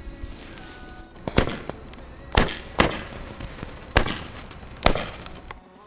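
A low-noise multi-shot sky-shot firework cake (Florals 100 'No Sound') firing: five sharp launch pops over about four seconds, each with a brief tail after it.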